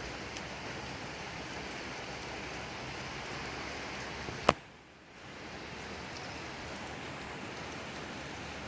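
Steady rain falling. About halfway through a single sharp click cuts in, the rain drops out for about a second and then fades back in.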